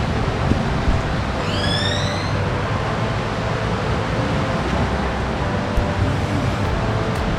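Steady rush of ocean surf with a single rising bird whistle about one and a half seconds in.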